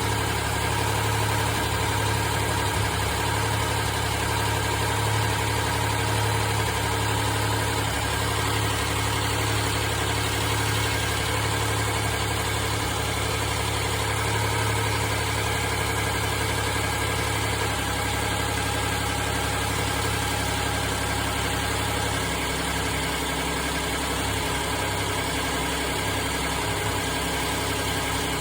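Kia car engine idling steadily on a cold start, with the vibration the owner is recording. The deepest part of the hum eases off about two-thirds of the way through.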